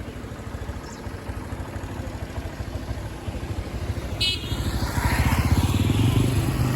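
Motorcycle engine running with a steady fast pulse, growing louder and picking up speed about four to five seconds in.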